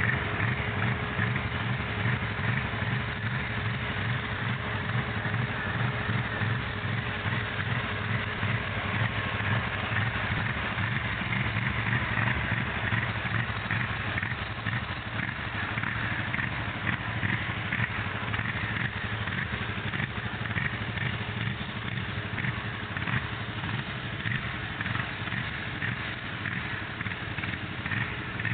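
Polaris 850 XP engine running continuously with a rough, uneven beat.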